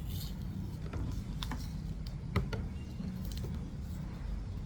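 Scattered light clicks and ticks of hands handling and taping a kwitis bottle rocket to its stick, over a low steady rumble.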